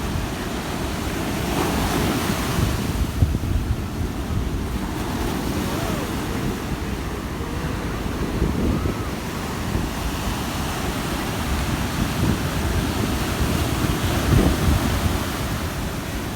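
Rough sea surf breaking and washing in steadily, under strong wind buffeting the microphone with a low rumble.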